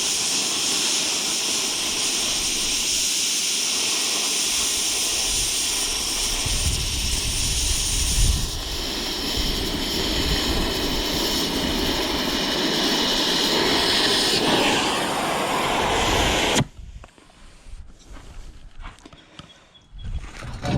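Stick welding arc burning steadily for about sixteen seconds, then stopping suddenly as the arc is broken; a few light knocks follow near the end.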